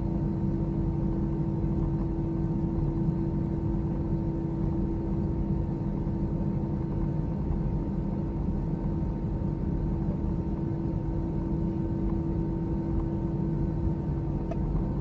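Steady cabin drone of an Airbus A321 taxiing after landing: engines at idle and the air-conditioning, a low rumble with a few constant hums held throughout.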